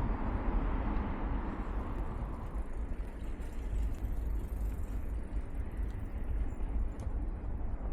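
Wind rumble and road noise on a bicycle-mounted camera's external microphone, with street traffic; the sound of a passing vehicle fades over the first two to three seconds.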